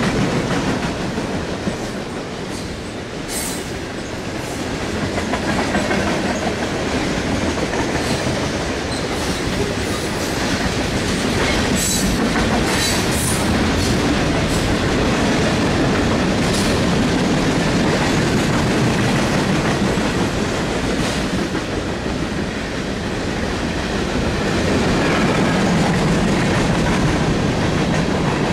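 Freight train cars rolling past at track side: a steady rumble of steel wheels on rail, with a handful of sharp clicks.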